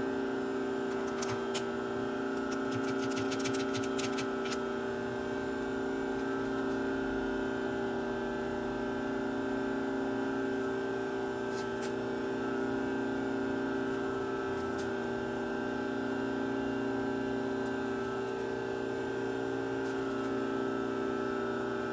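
Bridgeport milling machine's spindle motor running with a steady hum, with a cluster of light ticks between about one and four and a half seconds in.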